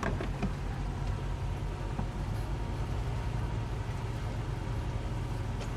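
Towboat's twin 200 hp Suzuki outboard engines running steadily under tow, a continuous low drone.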